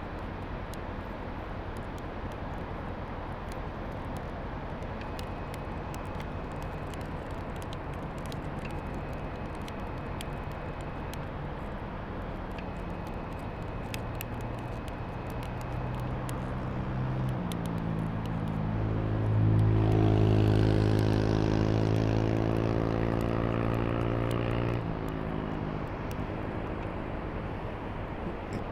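Steady wind and surf noise, with a motor starting up about 17 seconds in. Its hum steps up in pitch and grows louder, runs for several seconds, then stops about 25 seconds in.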